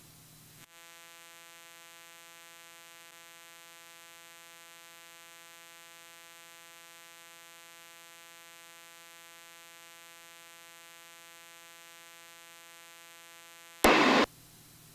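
Steady electrical hum in the audio feed, many evenly spaced overtones held at one pitch, with no engine or cabin noise behind it. A short loud burst of noise cuts in near the end, lasting about half a second.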